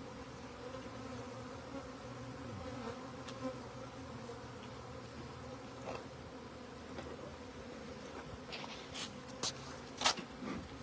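A swarm of honey bees buzzing in a steady, even hum, with a few sharp clicks and knocks near the end.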